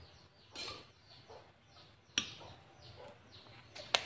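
Birds chirping in the background with short, repeated falling calls. A metal spoon clinks against the sauce bowl, sharply about halfway through and again near the end.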